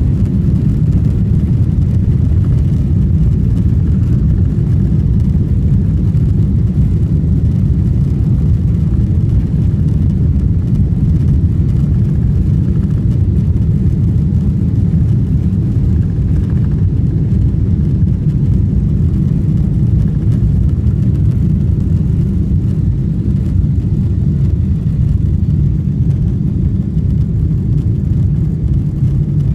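Cabin noise aboard a Boeing 777-300 airliner during takeoff: a loud, steady low rumble of the engines and rushing air.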